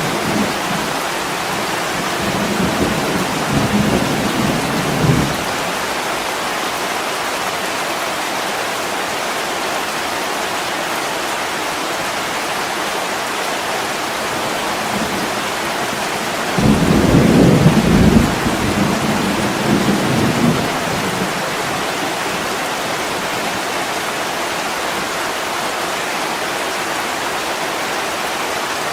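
Heavy rain falling steadily, with low rolls of thunder: one dies away within the first few seconds, and a louder one begins suddenly a little past the middle and rumbles on for about four seconds.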